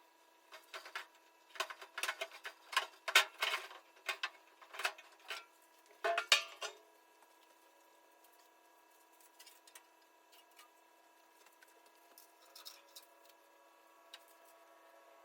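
Shop hand-work with tools and metal parts: a quick, uneven run of sharp clicks and clatters for about seven seconds, loudest around three and six seconds in, then only a few faint ticks.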